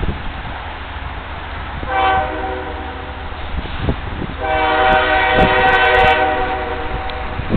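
Freight locomotive's multi-chime air horn sounding twice over a low rumble: a shorter, softer blast about two seconds in, then a longer, louder one from about four and a half seconds in until near the end.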